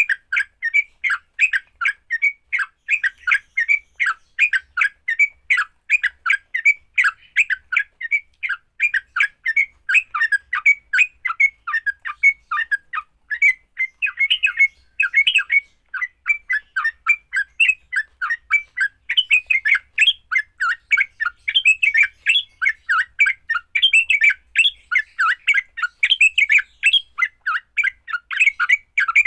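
Yellow-vented bulbul (trucukan) giving its harsh, chattering 'fighting' call: quick, squawky notes following one another several times a second without let-up. This is the aggressive territorial call played to provoke a kept bulbul into calling back.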